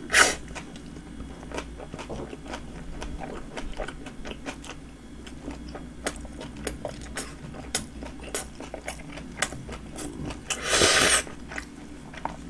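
Close-miked chewing of a roast beef flatbread sandwich: many small wet mouth clicks and smacks, with a louder bite at the start and another bite about eleven seconds in.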